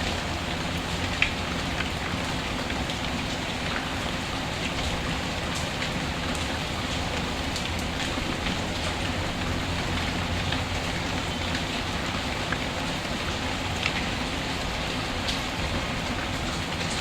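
Steady rain falling, with a wood fire in a fireplace crackling underneath and giving a few sharp pops, one about a second in and another near the end.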